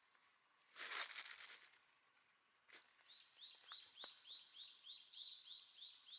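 A songbird singing a rapid series of about a dozen short, high, down-slurred notes, starting about three seconds in. A brief rustle, the loudest sound, comes about a second in, over otherwise quiet outdoor surroundings.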